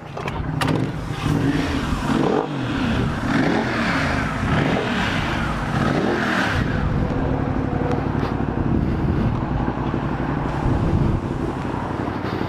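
2015 Ducati Multistrada 1200S's twin-cylinder engine running through a full Termignoni exhaust, with the revs rising and falling several times before settling steadier in the second half.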